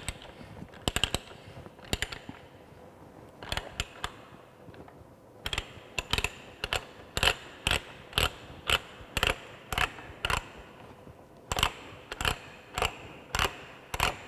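Ratchet of a pipe-threading die stock clicking as its handle is worked in reverse to back the die off a freshly threaded galvanized steel pipe. The clicks come about two a second in two runs, with a short pause near the middle.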